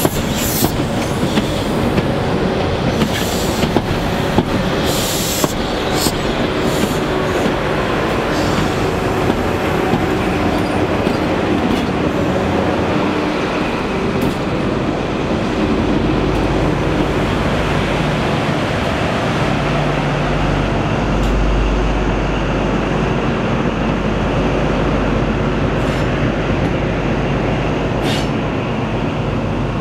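HST coaches pass close by, their wheels clicking over the rail joints. From about halfway through, the rear Class 43 diesel power car goes by with a steady low engine drone.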